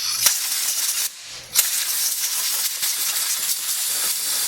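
Compressed-air blow gun blasting off the transmission housing around a newly fitted seal, cleaning it before sealing. It blows a short blast of about a second, stops briefly, then blows a longer steady blast.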